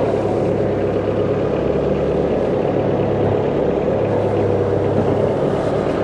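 An engine running steadily at a constant speed, with a continuous low drone.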